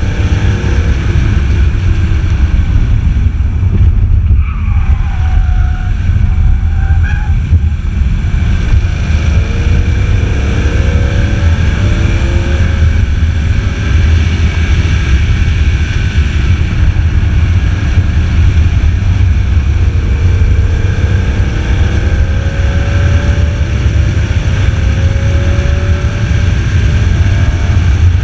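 BMW Z4 M Roadster's 3.2-litre straight-six engine at speed on a racetrack, with its revs falling a few seconds in as the car slows and then climbing again twice as it accelerates. A heavy low wind rumble on the microphone runs under the engine.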